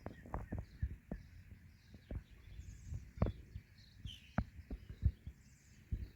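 Irregular soft knocks and taps, a dozen or so over a few seconds, with faint high bird chirps now and then.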